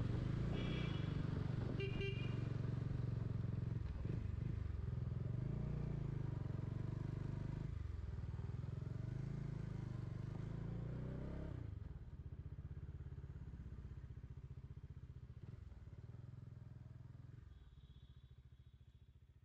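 Bajaj Dominar 400's single-cylinder engine running at low road speed, with a brief rise in revs about ten seconds in; the sound then fades away over the last several seconds. A few short high horn beeps near the start and again near the end.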